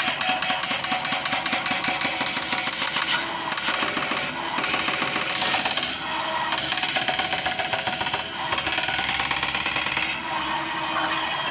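A motor running with a fast, rattling rhythm, changing abruptly several times.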